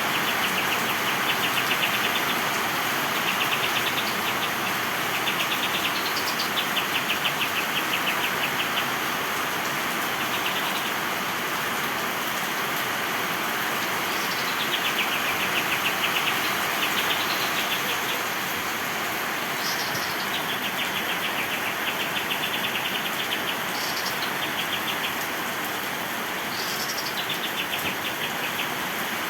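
Kapas tembak songbirds singing repeated fast chattering trills, some phrases sweeping higher, over a steady hiss of heavy rain.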